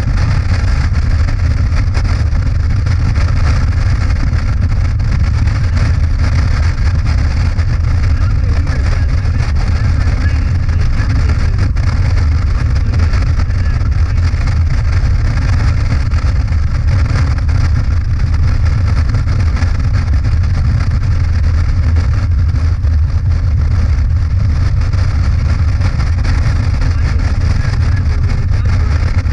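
Motorcycle engine running steadily at cruising speed, with a constant low drone and wind and road noise across the microphone.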